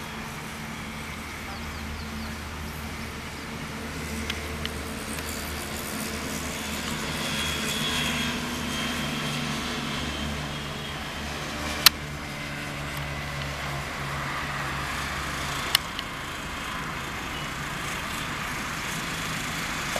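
Suzuki Swift Dzire sedan's engine running at low speed as the car moves slowly over a dirt ground, a low hum that swells and fades. Two sharp clicks come in the second half.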